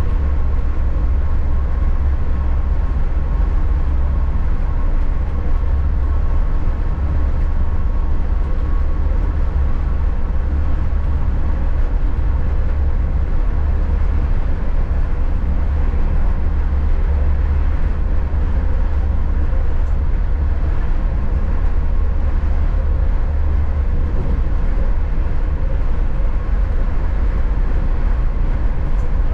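Passenger train running: a steady, loud low rumble with a faint constant hum above it.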